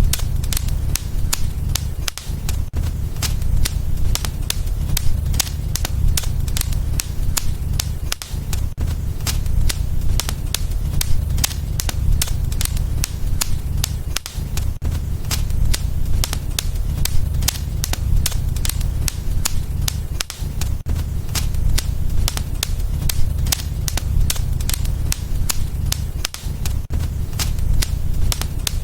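Wood fire crackling in a fireplace: a dense run of snaps and pops over a steady low rumble from the burning logs.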